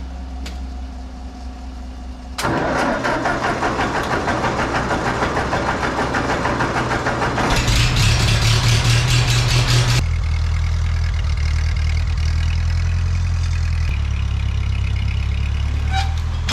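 Ford 8N tractor's four-cylinder engine running. It gets louder with a fast, even pulsing about two seconds in, runs higher and louder for a couple of seconds near the middle, then settles back to a steadier, lower run.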